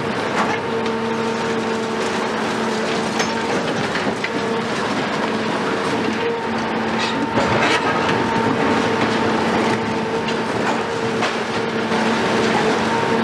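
A Cat 374 excavator's 15-litre Cat C15 diesel engine running steadily under load, with irregular cracking and clattering of demolition rubble being broken and moved.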